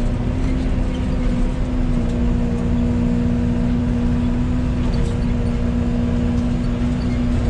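Yanmar ViO80 mini excavator's diesel engine running steadily at working speed, a constant drone.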